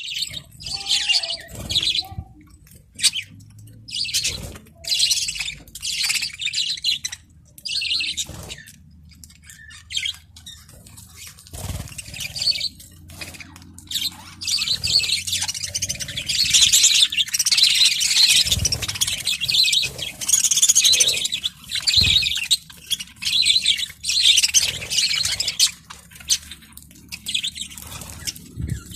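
Budgerigars chattering and warbling in repeated bursts of fast twittering calls, busiest around the middle.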